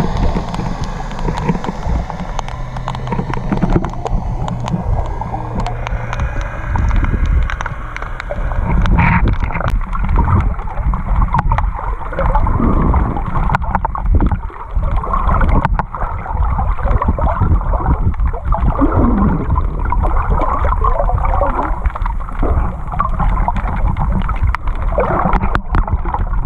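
Steady wind and water noise around a small fishing boat on open water, with a low steady hum for a few seconds early on and many short irregular knocks and buffets.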